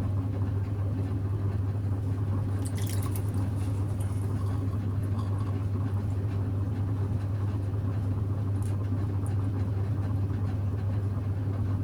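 Electric potter's wheel running with a steady low hum while wet clay is thrown on it, with a few faint soft touches of hands on the clay.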